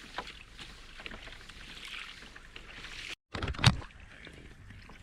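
Water splashing and lapping around a kayak on the ocean, with some wind on the microphone. A sharp thump comes a little past the middle, right after a brief dropout in the sound.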